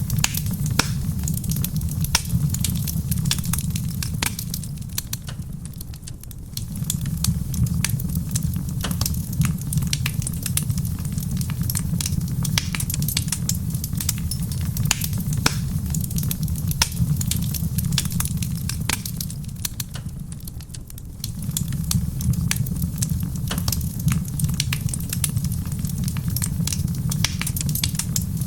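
Wood fire crackling in a stone fireplace: a dense run of sharp pops and snaps over a steady low rumble. The rumble fades out twice, at about five seconds and again at about twenty, and comes back each time.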